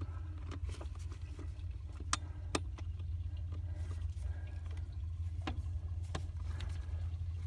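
A steady low hum with a few faint clicks and knocks scattered through it.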